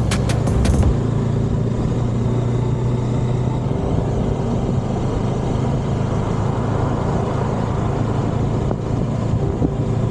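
Motorcycle engine running steadily while riding, over road and wind noise. A few sharp ticks sound in the first second.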